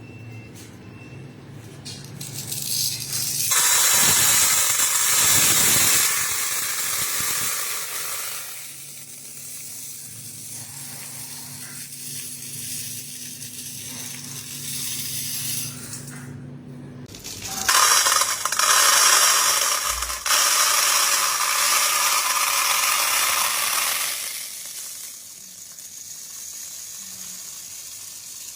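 Many pieces of gold clinking and rattling against one another, in two loud spells with quieter clatter between them.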